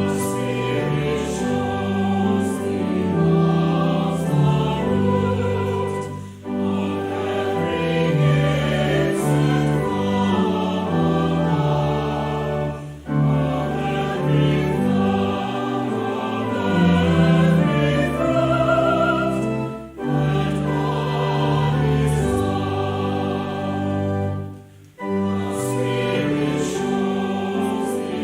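Choir singing a slow, sustained anthem in long held phrases, with short breaks between phrases about every six or seven seconds.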